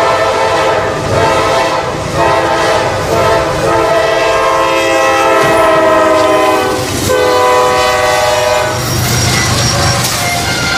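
Train horn sounding in several long, loud blasts over the low rumble of the moving train.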